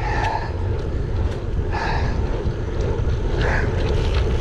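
Wind buffeting the microphone of a bike-mounted action camera while riding, a steady low rumble.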